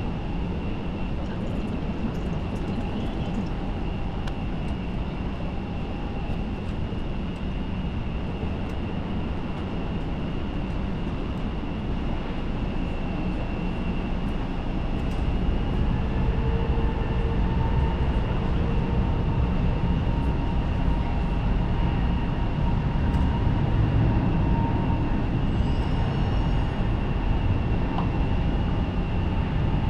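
Jet aircraft engines running: a low rumble with a steady high whine over it, growing louder about halfway through.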